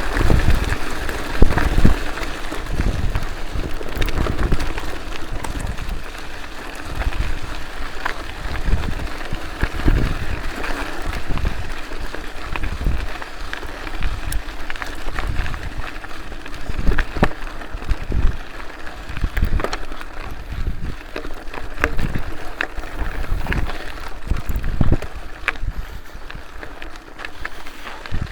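Wind buffeting a moving camera's microphone in repeated low rumbling gusts, over a steady rushing noise with scattered clicks and rattles, as on a bicycle ride.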